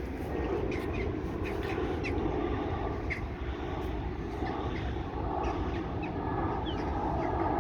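Steady low rumble of an airplane passing overhead, growing slightly louder, with scattered short bird chirps.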